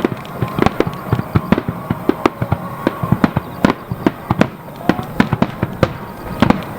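Fireworks bursting in a rapid, irregular string of sharp bangs, several a second.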